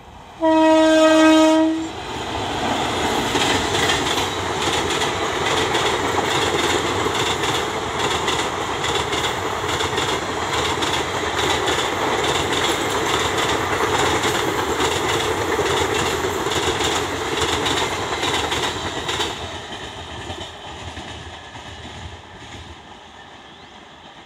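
WAP-4 electric locomotive sounding its horn in one loud blast of about a second and a half. The express train of ICF coaches then runs past at speed with a steady clickety-clack of wheels over the rail joints, which fades away as the last coaches go by.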